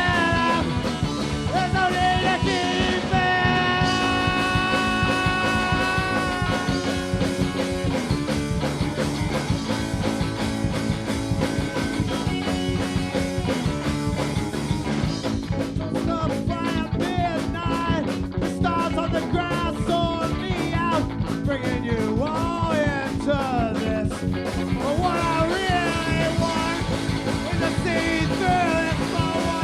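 A live rock band playing, with drums and bass under a lead melody. The lead holds long steady notes in the first few seconds, then from about halfway bends and wavers in pitch.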